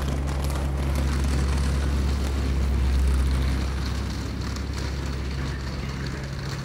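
Passenger train rolling past a station platform: a steady low hum and rumble with scattered clicks and rattles of the moving cars. It grows loudest about three seconds in and eases off near the end.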